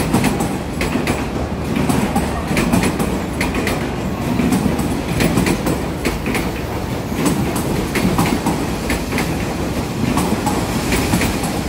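Passenger train coaches rolling past, a steady rumble of steel wheels on rail with a clickety-clack of clicks as the wheels cross the rail joints.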